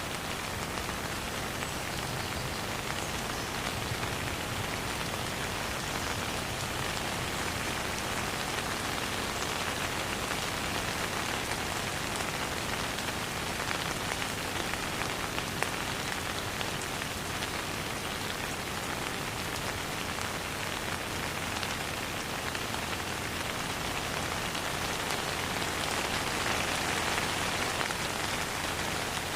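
Steady rain falling with no thunder, the ticks of single drops hitting close by over the even hiss. It grows a little heavier near the end.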